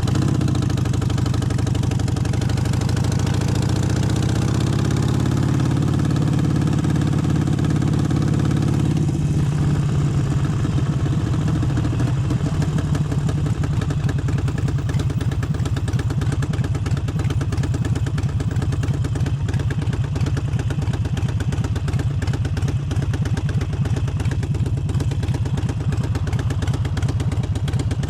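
Harley-Davidson Forty-Eight's air-cooled V-twin engine running. The revs dip right at the start, climb steadily for about eight seconds, then settle into a steady pull.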